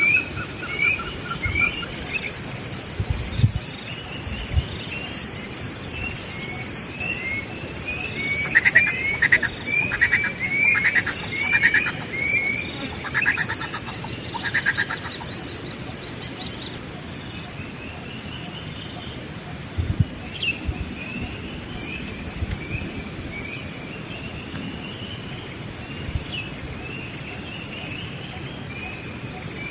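Wild songbirds calling with many short, falling chirps, busiest and loudest in the middle, over a steady high insect buzz. A few low bumps are heard early on and about two-thirds through.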